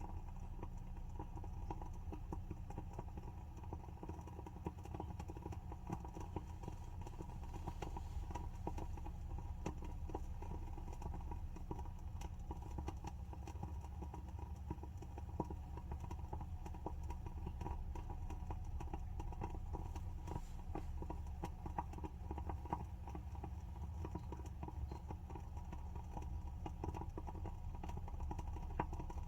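WoodWick candle's wooden wick burning, crackling with many small irregular pops, over a low steady hum.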